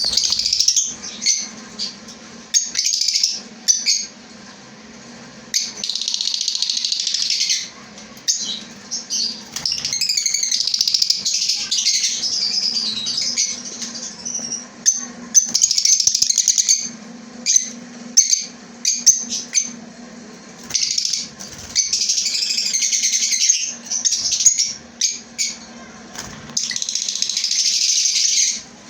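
A colony of caged lovebirds calling together in loud, shrill bursts that last from one to several seconds, with many sharp clicks in between.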